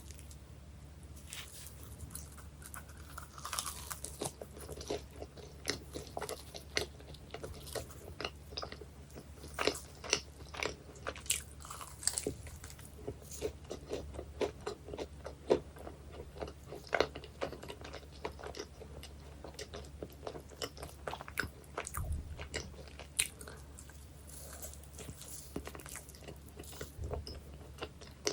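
Close-miked biting and chewing of baked pies, the crust crunching in many sharp, irregular crackles.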